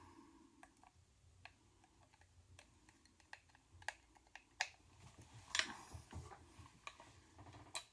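Faint, irregular clicks and taps of small metal parts being handled as the guitar pedal's bottom plate is fitted back on and screwed down, a quick cluster of louder clicks about two-thirds of the way through.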